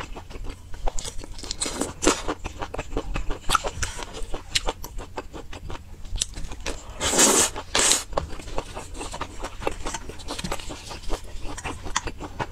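Close-miked eating sounds: chewing skewered food coated in chili sauce, with a steady run of quick wet mouth clicks and two louder, longer noisy bursts about seven seconds in.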